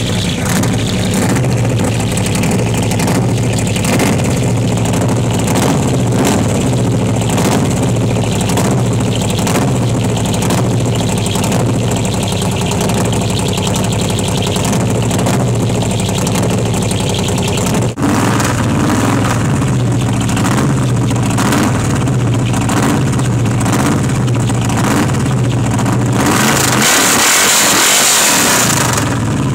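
American V8 engine idling with a steady, pulsing beat. The sound jumps about 18 seconds in, and near the end a loud rushing hiss lasts about three seconds.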